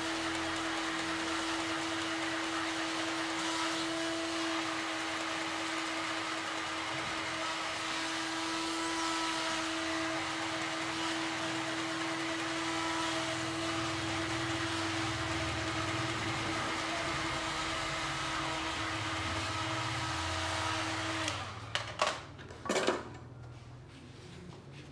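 A small electric motor running steadily with a constant hum, then switched off about three seconds before the end, followed by a few sharp knocks.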